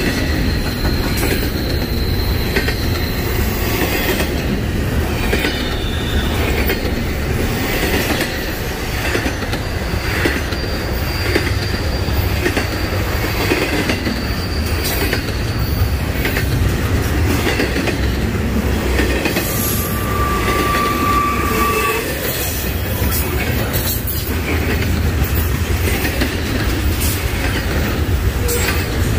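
Double-stack intermodal freight train's well cars rolling past: a steady heavy rumble with the clicking of wheels over rail joints, and a few brief thin wheel squeals, one near the start, one around the middle and a lower one later on.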